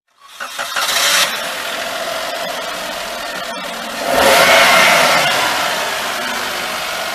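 2018 Suzuki Celerio's 1-litre three-cylinder, 12-valve DOHC engine starting up and settling to idle, then revving about four seconds in and easing back down.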